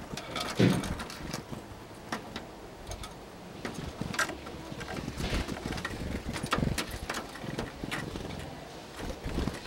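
Tits flying in and out of a wooden bird feeder: fluttering wingbeats and many light taps and pecks on the wood, with a louder thump about half a second in.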